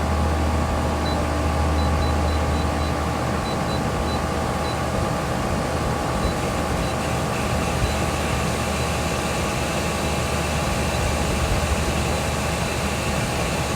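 Pool filter pump motor running with a steady hum, water circulating through the equipment.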